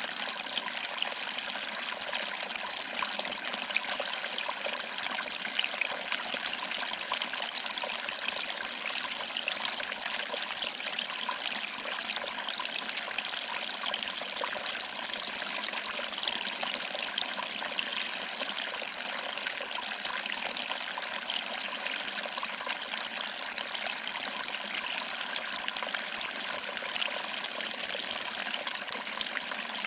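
Small waterfall: water trickling over rocks and splashing into a pool, a steady, even rush with many small splashes and little low rumble.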